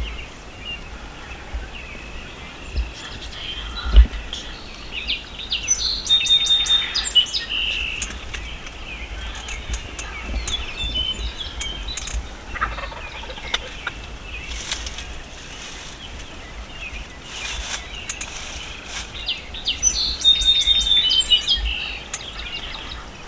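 Wild turkeys calling close by: two rapid, rattling gobbles, about six seconds in and again near the end, with softer calls between them. A single low thump about four seconds in is the loudest sound.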